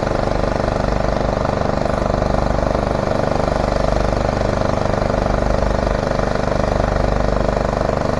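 Heavy site machinery (crusher, excavators and wagons) running together: a steady engine drone with a low rumble.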